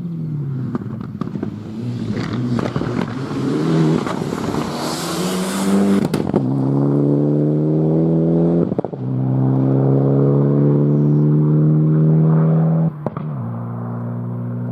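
Four-wheel-drive rally car accelerating hard, its engine note climbing through the gears with upshifts about six and nine seconds in, then dropping suddenly as it lifts off near the end. Sharp cracks and a rush of hiss come during the first few seconds.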